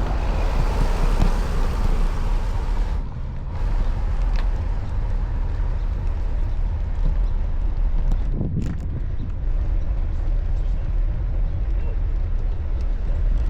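Road traffic passing on wet pavement, a hiss of tyres loudest for the first three seconds, over a constant low rumble of wind on the microphone from cycling.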